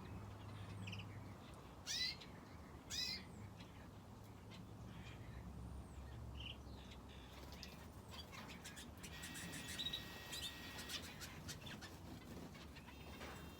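Small aviary birds, finches and a canary, chirping: scattered short high calls, two louder sweeping calls about two and three seconds in, and a burst of rapid twittering near the ten-second mark.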